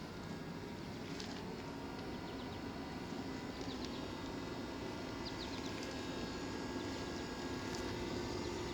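Steady low outdoor rumble with a few faint, short, high bird chirps over it, a small cluster about three and a half seconds in and another about five seconds in.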